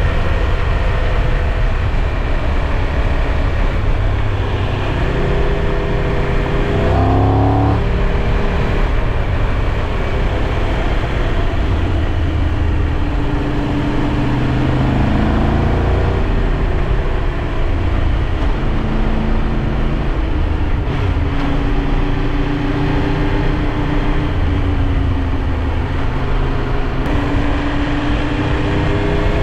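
Triumph Tiger 1200 Rally Pro's three-cylinder engine running under way, over a steady rush of wind. The engine note rises and falls with the throttle, climbing sharply about seven seconds in.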